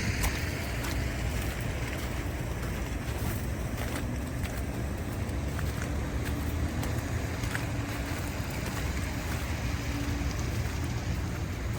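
Steady low rumble of city street traffic, with a few faint scattered ticks.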